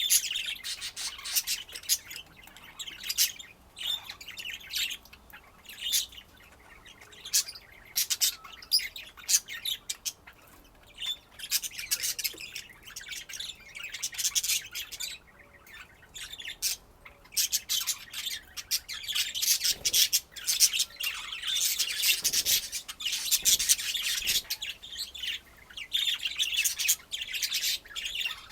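Budgerigars chattering with rapid, high chirps and squawks, getting busier and louder in the second half.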